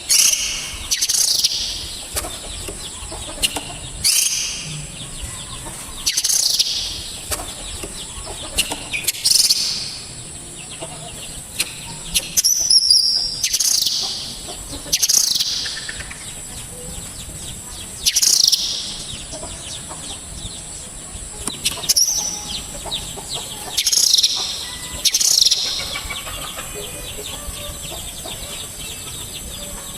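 Songbird calls from a masteran mix of kolibri ninja, srindit, kinoi and platuk: sharp, harsh calls, each a quick falling sweep, repeated every second or two over a steady high hiss.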